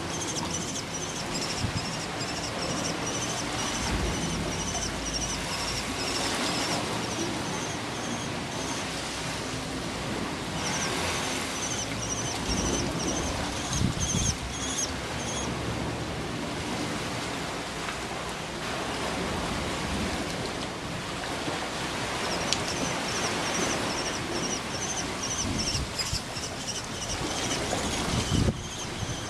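A songbird repeats rapid series of short, high notes in three bouts of several seconds each, over a steady rushing background noise.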